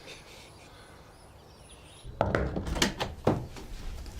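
Faint birdsong over quiet outdoor ambience, then a scene change about two seconds in to a quick series of sharp wooden knocks and thuds in a small room.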